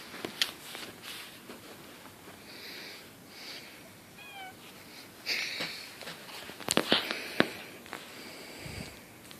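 Cats fighting: several short, high cat cries, with a quick cluster of sharp knocks and clicks about seven seconds in.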